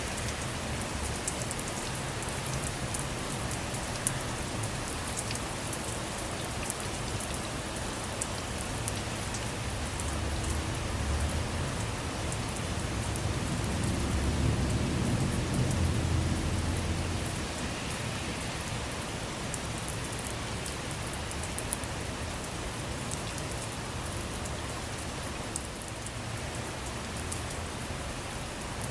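Steady rain on a car, heard from inside, with scattered sharp drop ticks. A low rumble of distant thunder swells about a third of the way in, peaks near the middle, and fades away.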